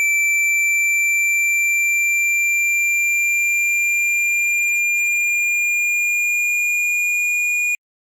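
Generated speaker-cleaning tone: one steady, high-pitched electronic tone that rises very slightly in pitch and cuts off suddenly near the end. It is played to vibrate a phone speaker's cone and push out water and dust.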